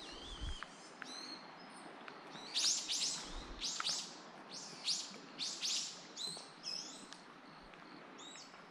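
Bird calls: a rapid series of high chirps, each falling in pitch, often in quick pairs. They start about two and a half seconds in and go on for several seconds over a steady faint hiss.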